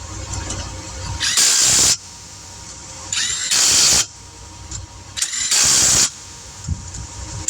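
Impact wrench running lug nuts onto a car wheel in three short bursts, each about half a second to a second long.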